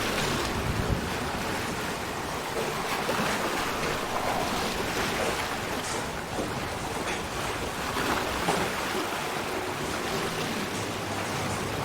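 Sea ambience: a steady, unbroken wash of ocean water noise, with no pauses or distinct events.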